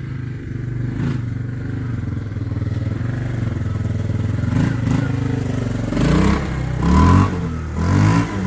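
Four-wheeler (ATV) engine running steadily, then revved up and down about three times in the last few seconds.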